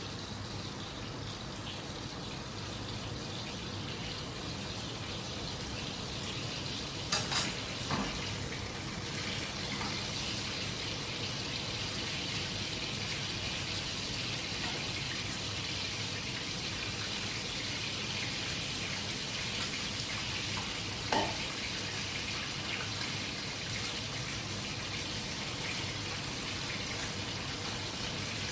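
Food frying in hot oil in a pan, a steady sizzle, with a few sharp clicks about seven seconds in and once more near the twenty-second mark.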